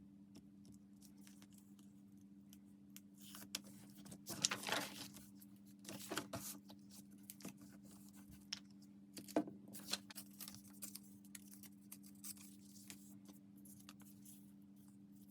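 Paper and craft materials being handled at a desk: scattered rustles and small clicks, busiest about four to seven seconds in and again around ten seconds, over a steady low hum.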